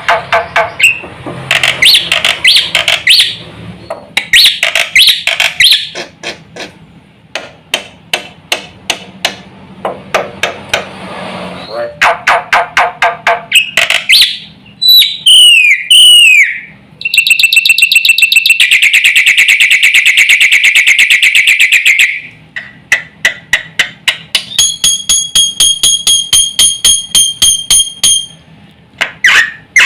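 Black-winged myna (jalak putih) singing a loud, varied song: rapid clicking chatter, whistled falling glides, a long buzzy trill and a held whistle, with mimicked calls of other birds mixed in.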